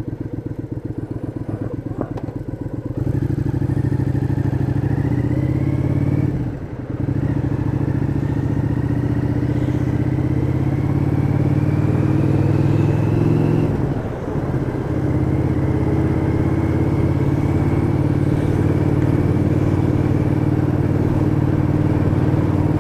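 Cruiser motorcycle engine idling with an even pulse, then pulling away about three seconds in, its pitch climbing. It dips briefly at gear changes about six and fourteen seconds in, then settles into a steady cruise.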